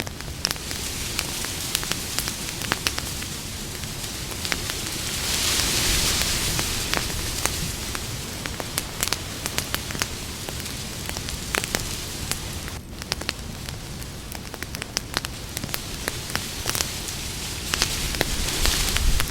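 Campfire crackling, with many irregular sharp pops over a steady hiss that swells louder about five seconds in and again near the end.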